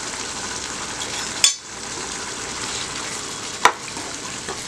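Chicken liver and gizzard gravy sizzling steadily in a non-stick pan, stirred with a wooden spatula, with two sharp knocks, one about a second and a half in and one later on.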